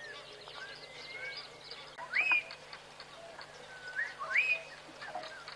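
Wild birds calling: a scatter of short whistled chirps, with two louder whistles that sweep up and then hold, about two seconds and about four seconds in.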